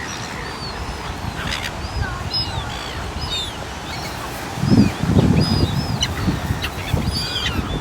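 Birds calling: many short, high chirps scattered throughout, with a stretch of low rumbling noise about five seconds in.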